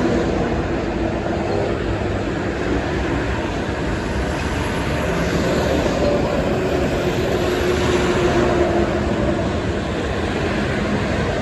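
Steady noise of heavy highway traffic: trucks and cars passing at speed, with tyre and engine noise blending together.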